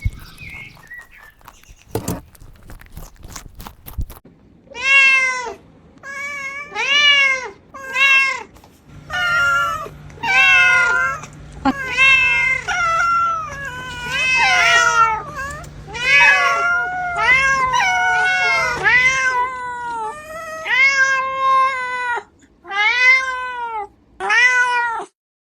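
Kittens meowing over and over: high calls that rise and fall in pitch, about one a second, at times two overlapping. A few sharp knocks come first, before the meowing starts about four seconds in.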